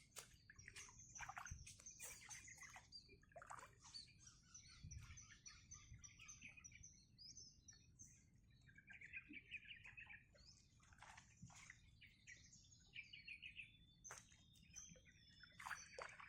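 Small birds chirping and calling in many short, overlapping notes, with a few rapid trills.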